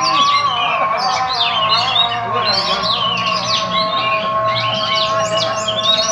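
Oriental magpie-robin (kacer) singing continuously: a rapid, varied run of sweeping, chirping and whistled notes.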